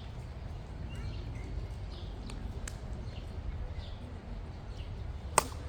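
Steady low outdoor rumble with a few faint bird chirps, then near the end a single sharp crack, a plastic Wiffle ball bat hitting the ball.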